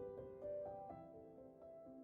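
Soft background piano music: a louder chord struck at the start and another about half a second in, then held notes fading and changing.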